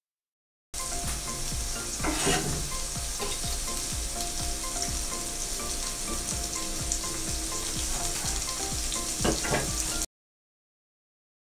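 Chopped onion and green chilies frying in oil in a non-stick pan: a steady sizzle and crackle, briefly louder about two seconds in and again near the end. It starts and stops abruptly.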